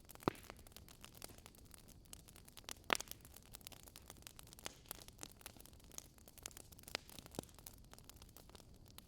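Campfire burning: wood crackling and popping at irregular intervals over a faint hiss, with two louder pops, one just after the start and one about three seconds in.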